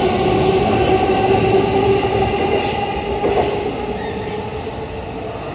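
JR East E233-1000 series electric train pulling away, its running noise with a steady whine fading as it draws off down the line.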